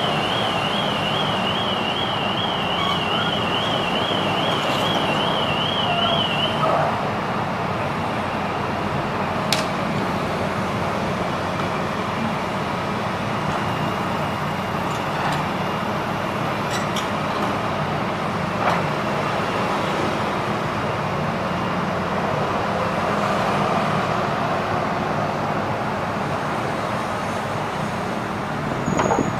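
Steady low engine hum with a haze of traffic noise. A warbling electronic alarm tone sounds over it and cuts off about six and a half seconds in. A few sharp knocks come later.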